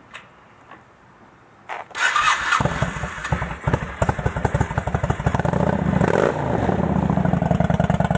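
A few faint clicks, then about two seconds in the 2000 Honda Shadow Aero 1100's single-pin-crank V-twin is cranked over by the starter, catches, and runs at idle with an even pulsing beat through an aftermarket Cobra exhaust.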